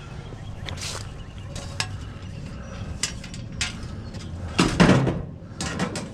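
Loose metal scrap clanking and rattling as it is handled, with a run of clinks and the loudest clatter a little before the end, over a steady low rumble from a running vehicle.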